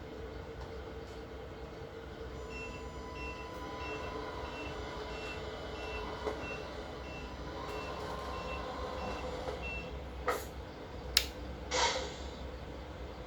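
Tamiya 1/14 Mercedes-Benz 4151 tipper truck's MFC-03 sound unit playing a steady diesel engine hum through its small speaker, with a reversing beeper at two to three beeps a second for about seven seconds. Near the end come two sharp clicks and a short hiss.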